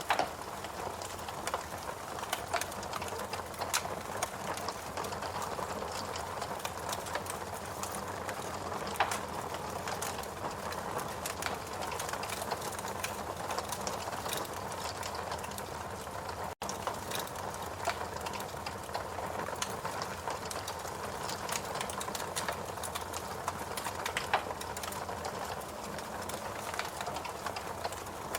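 Fireplace crackling: irregular small pops and snaps over a steady hiss, with a momentary dropout a little past halfway.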